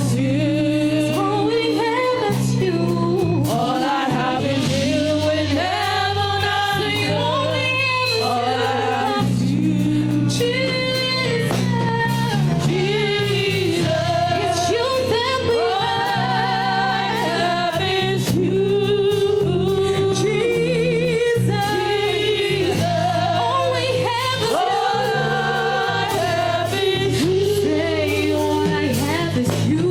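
Gospel worship music: singers, some of them a choir or congregation, sing a slow, wordless or unrecognised melody over sustained keyboard chords.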